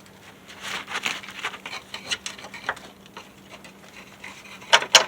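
Irregular clinks, scrapes and rattles of hand tools working on metal truck parts, with a loud cluster of sharp knocks near the end.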